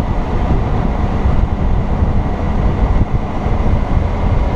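Steady rumble of wind buffeting the microphone on a moving Honda Gold Wing 1800 touring motorcycle, with the bike's engine and road noise running under it at cruising speed.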